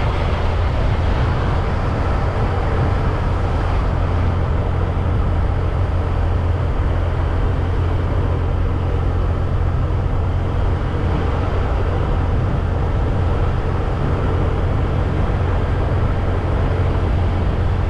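Motorbike riding at a steady speed: an even, unbroken low rumble of engine, tyres and wind on the microphone.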